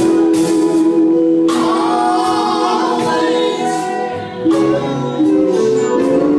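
Gospel vocal group singing, holding one long note for about four seconds before moving to new notes.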